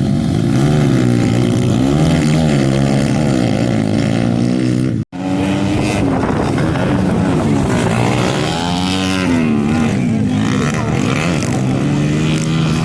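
Several pit bike engines racing, each revving up and down as the riders shift, their pitches rising and falling over one another. The sound cuts out for an instant about five seconds in.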